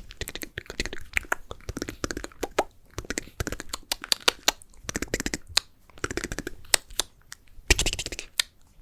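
ASMR mouth sounds recorded close to the microphone: fast, irregular wet clicks and tongue pops with short hissy smacks between them, loudest near the end.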